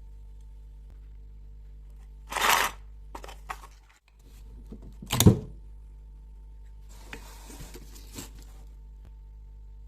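Hand-tool work noises: a short scraping burst, a sharp knock about five seconds in, and a longer stretch of rubbing near the end, over a steady low hum.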